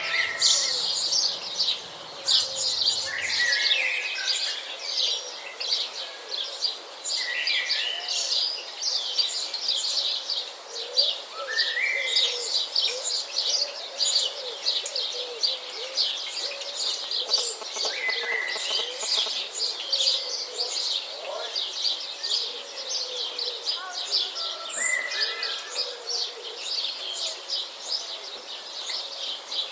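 Many birds chirping at once in a dense, unbroken chorus of quick high chirps, with separate lower calls standing out every few seconds.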